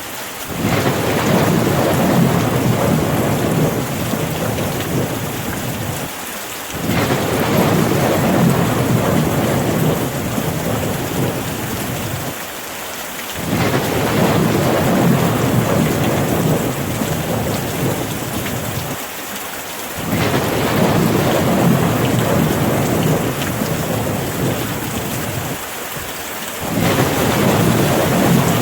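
Rain falling steadily with a low rumble under it. The rumble cuts in abruptly and then eases off about every six and a half seconds, in an even repeating cycle.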